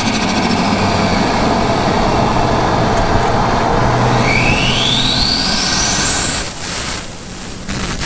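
Turbocharged Ford Barra straight-six engine running loud and steady. About halfway through, a thin high whistle rises smoothly in pitch and then holds at a very high note.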